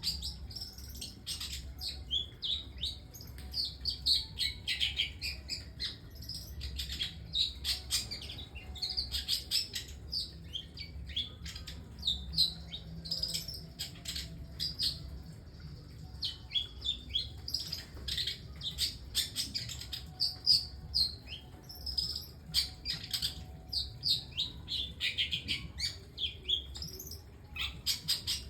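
Long-tailed shrike singing a dense, unbroken run of varied chirps, short whistles and clicks, with a faint low hum underneath. It is the unusual learned song material that bird keepers prize in this species.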